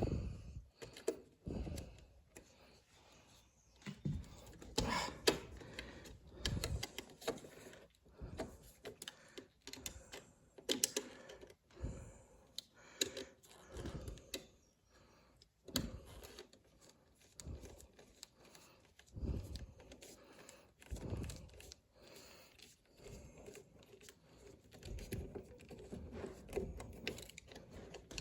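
Irregular clicks, taps and rattles of hands working on a loose wall thermostat, handling its plastic cover and tiny screws.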